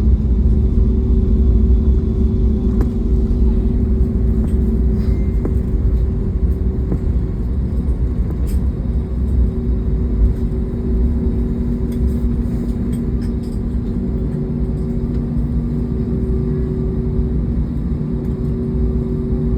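Airliner cabin noise on the landing roll just after touchdown: a loud, steady low rumble from the engines and the runway, with two steady engine tones, easing a little as the plane slows.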